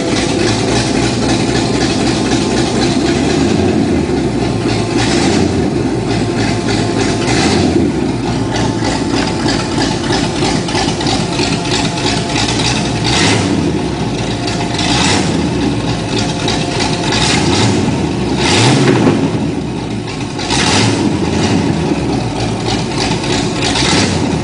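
1983 Mustang GT's carbureted 5.0 V8 with a Lunati cam, running open with no exhaust fitted, with several short rises in engine speed every few seconds. The carburetor is still only roughly adjusted.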